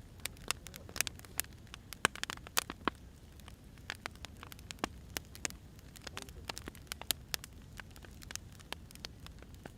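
Burning firewood crackling, with irregular sharp pops and snaps over a soft steady hiss.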